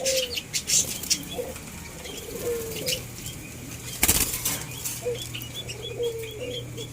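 White-eared brown doves flapping their wings, with a louder burst of flapping about four seconds in. Short, soft, low falling calls come now and then.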